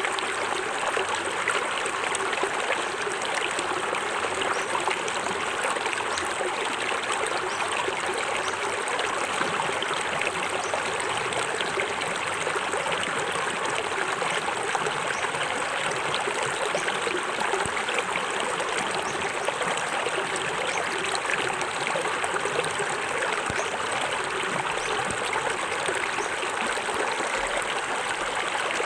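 Small forest waterfall: water falling and splashing steadily into a stream, a continuous rushing with fine trickling and gurgling detail.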